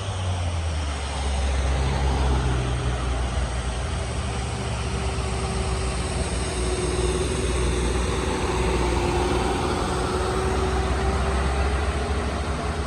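Heavy truck engine pulling slowly up a steep grade at low revs, a deep steady drone with a thin higher whine over the middle of it.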